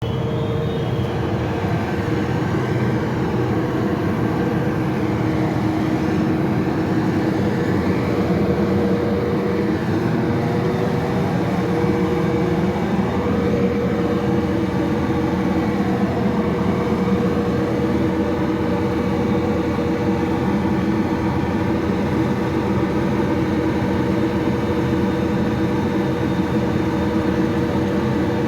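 Train engine running steadily, a constant hum with steady tones over a low rumble.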